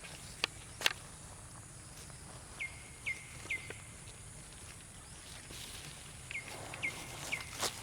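Short high chirping calls, each dropping in pitch and then levelling off, given three in quick succession about two and a half seconds in and again near the end. Two sharp clicks come about half a second and a second in, and another just before the end.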